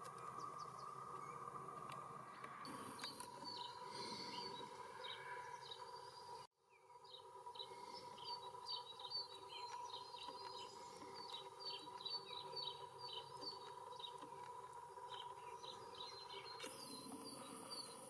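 Small songbirds chirping in quick runs of short, high notes, over a faint steady whine; the sound cuts out for a moment about six seconds in.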